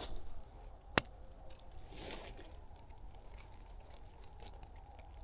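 Faint rustling and handling noise, with one sharp click about a second in.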